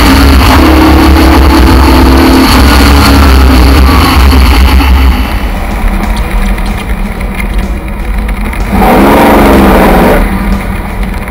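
Aston Martin DBR1 tribute racing car's engine running hard at speed in the open cockpit, dropping to a quieter slow running about five seconds in, with a brief rev rising and falling about nine seconds in.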